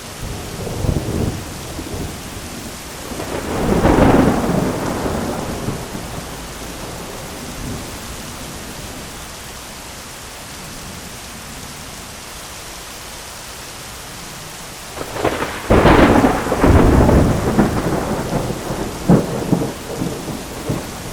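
Heavy rain falling steadily on an umbrella, with thunder: a rumble about four seconds in, then a longer peal with several sharp cracks from about fifteen seconds on.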